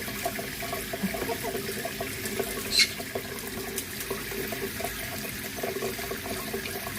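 Water running from a sink tap in a steady splashing stream, with one short high-pitched squeak about three seconds in.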